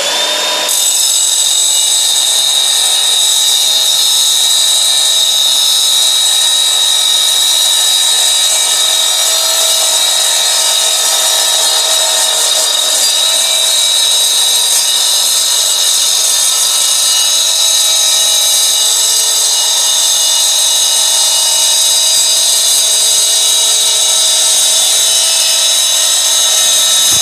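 Evolution R255SMS-DB+ mitre saw blade cutting through thick-walled steel tube: a deafening, steady, high-pitched metal-on-metal screech with a piercing ringing tone. The motor winds up to full speed in the first second, and the sound stops near the end as the cut finishes.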